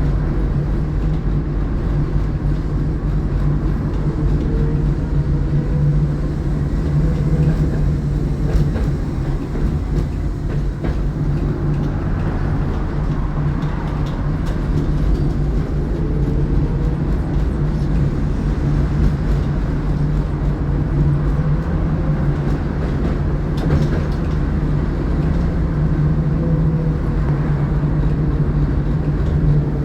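Tatra T6B5SU tram running along the track: a steady low rumble of wheels on rails and running gear, with a faint rising and falling whine now and then.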